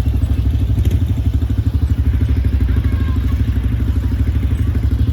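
ATV engine running steadily with a fast, even pulsing.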